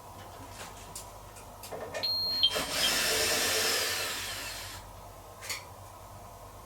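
Heat-pump tumble dryer running with a steady low hum and a few light clicks. About two seconds in comes a short high tone, then a roughly two-second burst of whooshing noise with a falling whistle that dies away.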